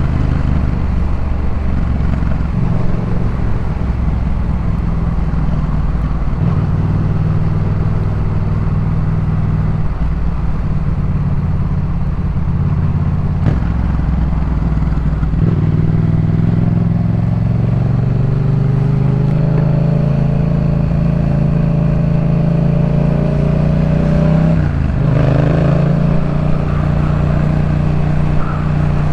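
2018 Yamaha MT-07's parallel-twin engine running through a Jeskap K4 full aftermarket exhaust while being ridden. The engine note holds fairly steady, shifting in steps through the first half. From about halfway it climbs steadily in pitch, drops sharply a few seconds before the end, then settles again.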